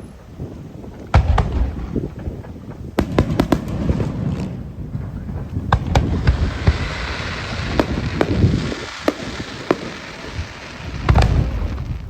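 Aerial fireworks display: shells bursting with many sharp bangs, a heavy boom about a second in and another near the end, and a stretch of dense crackling in the middle.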